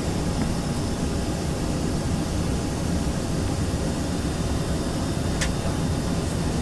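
Steady cabin noise inside an Embraer ERJ-135 regional jet: an even rush of air and a low hum, with a small click about five seconds in.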